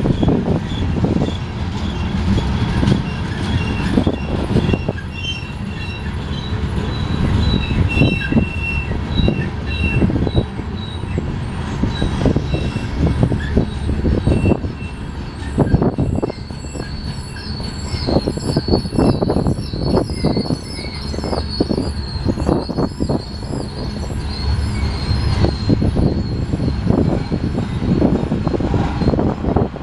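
Freight cars of a Union Pacific grain train rolling past: steel wheels rumbling and clanking over the rails, with thin, high-pitched wheel flange squeal that wavers and grows stronger in the second half.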